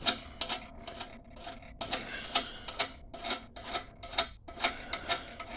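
Wrench backing a nut off a half-inch threaded rod: a run of short metallic clicks, about four a second.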